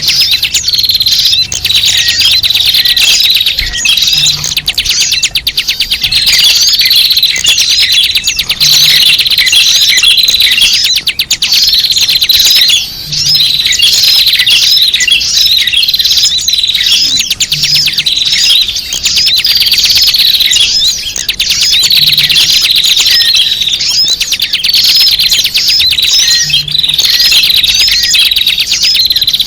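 Dense chorus of many small birds chirping and twittering without pause, a bird-trapping lure call (suara pikat). The pattern repeats about every four and a half seconds, as a looped recording does.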